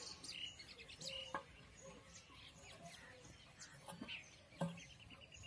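Small birds chirping faintly and repeatedly in the background, with a few soft knocks.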